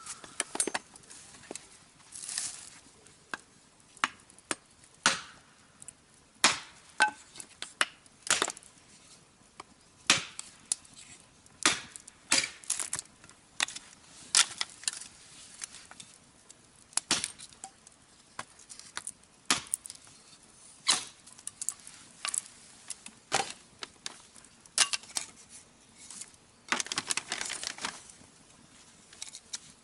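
Sharp wooden knocks and cracks at irregular intervals, about one a second, of firewood being chopped by hand, with a longer rustling scrape near the start and another near the end.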